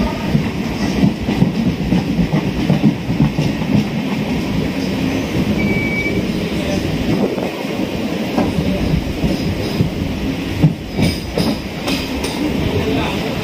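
Chennai suburban electric train running: a steady rumble with wheels clattering over the rails and a brief high squeal about six seconds in.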